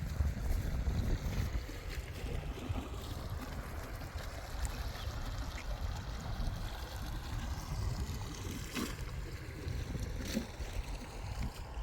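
Wind rumbling on the microphone over running and splashing water, with two brief sharper sounds late on.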